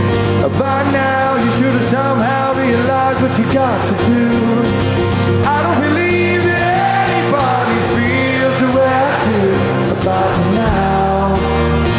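Rock band playing live with a sung lead vocal over guitars, bass and drums; the singing stops around ten and a half seconds in while the band plays on.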